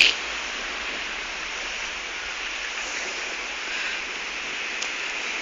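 Steady hiss of heavy rain falling, with one short sharp click right at the start.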